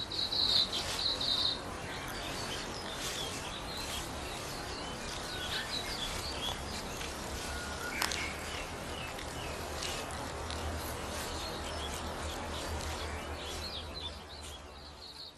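Forest ambience: small birds chirping now and then over a steady background hiss, with a high, steady trill in the first second and a half.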